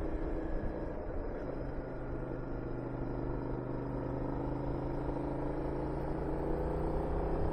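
Honda VTR250's V-twin engine running at a steady cruising speed, heard from the moving motorcycle with wind rushing over the microphone. The engine note drops a little about a second and a half in and rises slightly near the end.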